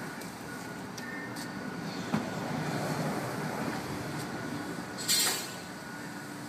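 A truck's turbo-diesel engine running steadily, swelling louder for a couple of seconds with a sharp click. A short, loud hiss follows about five seconds in.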